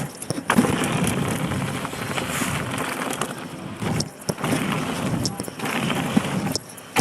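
Wind buffeting a GoPro camera's microphone while riding a bicycle, with the bike's tyres running over the ground and frequent knocks and rattles from the bike. The noise drops away briefly about four seconds in and again near the end.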